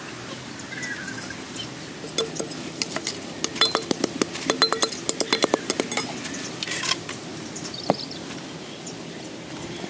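A quick run of light, ringing clinks and knocks, several a second, from about two to six seconds in, with one more knock near the end.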